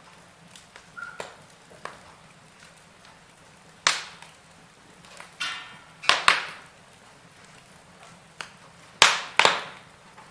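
Wood fire in a fireplace crackling: irregular sharp pops and snaps over a faint hiss, the loudest about four, six and nine seconds in, some coming in quick pairs.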